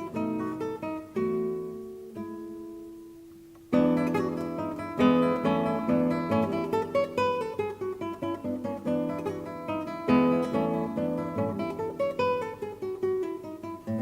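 Background acoustic guitar music, plucked and strummed; a chord dies away and the playing starts again sharply about four seconds in.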